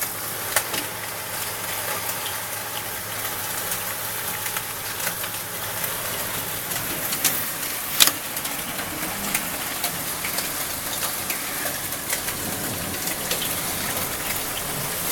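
Heavy rain pouring down in a steady hiss, with scattered sharp knocks of drops or stones striking, the loudest about eight seconds in.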